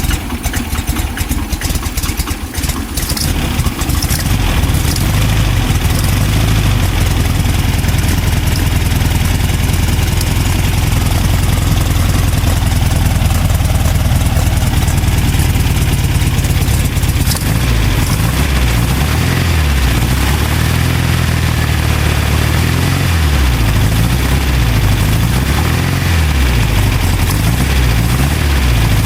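Volkswagen CC's engine running, with no knock to be heard now that the knocking has been fixed. In the second half its low note rises and falls a little.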